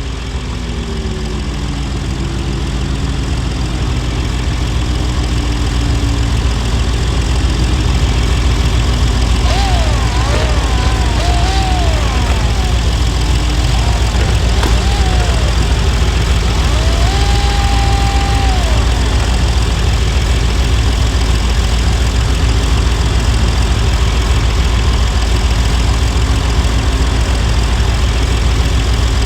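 Car engine dropping from a rev back to idle in the first few seconds, then idling steadily with a low rumble. A few short warbling higher tones sound over it between about ten and nineteen seconds in.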